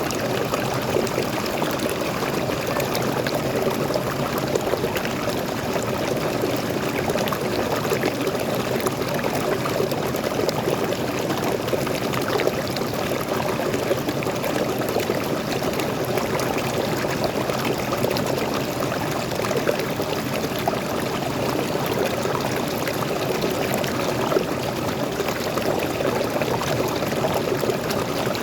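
Small waterfall and stream flowing steadily, a constant rushing and splashing of water.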